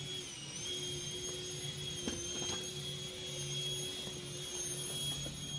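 A faint, steady high-pitched machine whine that dips briefly in pitch about half a second in, over a low hum that comes and goes.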